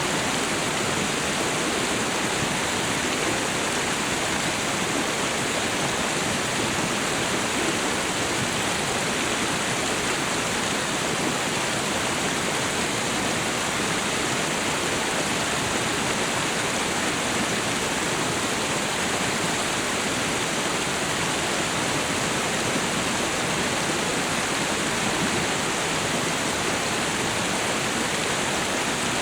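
Waterfall and river water rushing steadily, an even hiss-like roar without breaks.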